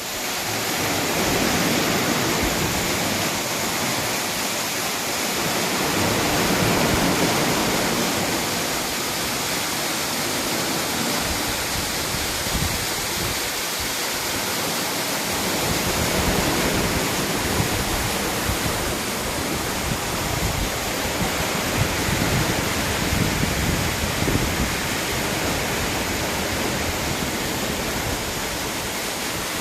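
Steady rushing of running water, an even hiss with a deeper rumble that comes and goes.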